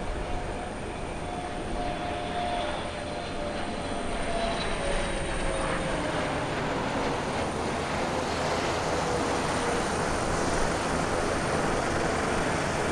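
Jet airliner, the COMAC C919 with its CFM LEAP-1C turbofans, flying past: a dense engine noise that grows steadily louder, with a thin whine that slowly falls in pitch.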